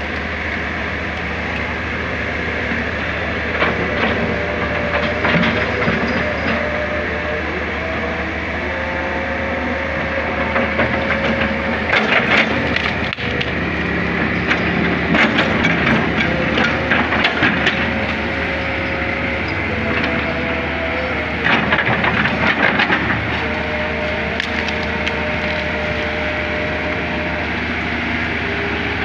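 Hydraulic excavator working: the diesel engine runs steadily under a wavering hydraulic whine, while the bucket scrapes and cracks through soil and debris in repeated bursts, the loudest about twelve seconds in and again around fifteen to eighteen and twenty-two seconds.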